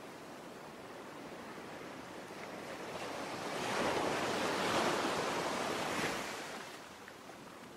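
Ocean waves: a steady wash of surf, with one wave swelling up from about three seconds in, breaking and washing out by about seven seconds.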